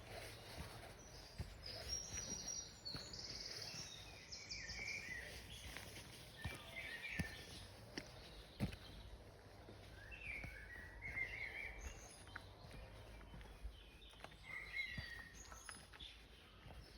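Birds chirping and calling on and off, with scattered light clicks and a low background rumble.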